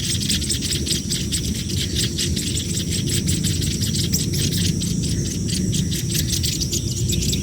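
Nestling birds making rapid, high-pitched begging chirps, a dense continuous chatter of hungry chicks, over a steady low rumble.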